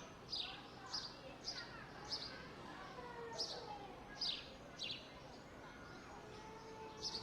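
A small bird chirping over and over: short, falling chirps about twice a second, with a pause of a couple of seconds near the end. Faint chatter of people's voices underneath.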